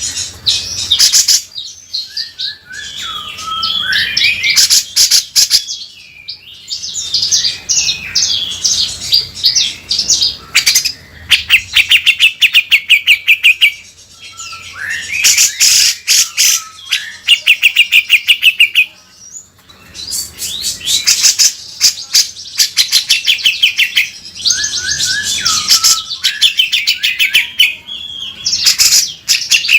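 Cucak jenggot (grey-cheeked bulbul) singing continuously in loud phrases of rapid, harsh rasping trills, chattering notes and short pitch glides, each phrase separated by brief pauses.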